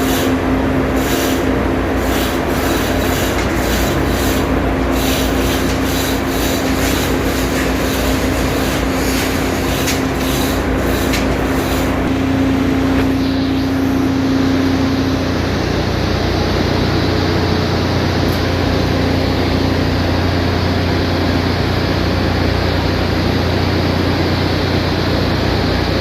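Steady, loud ship engine-room machinery hum. During the first half there are repeated short scraping or knocking strokes of work on metal parts, which then stop.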